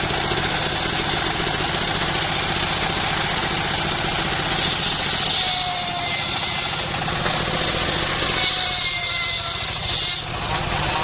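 Engine powering a home-built circular sawmill, running steadily, with a few faint sliding whines in the second half.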